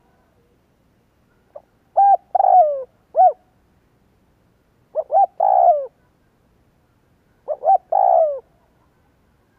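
Spotted dove cooing: three phrases a few seconds apart, each of a couple of short notes and then a longer note that falls in pitch. It is the decoy dove's call used to draw wild doves in.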